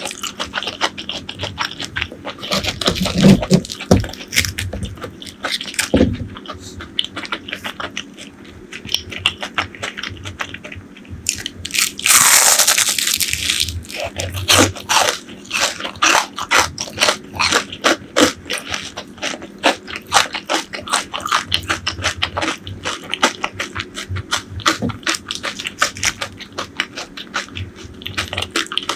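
Close-miked eating: a fast run of crisp crunches and chewing clicks from fried food being bitten and chewed. About twelve seconds in there is a louder rush of noise lasting a second or so.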